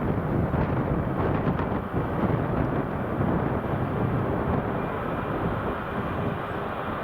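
Jet airliner engines running, a steady low rumble.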